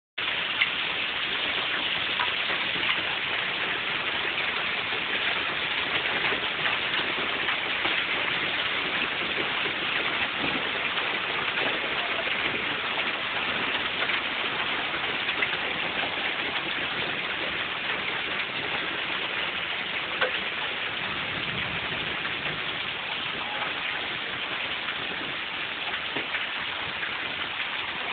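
Heavy rain pouring down steadily, a dense even hiss of drops hitting the ground and surfaces, with a few sharper drop ticks.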